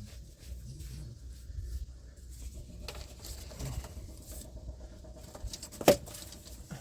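Light taps, rustles and small clicks from handling PEX pipe, fittings and crimping tools, with one sharp click about six seconds in.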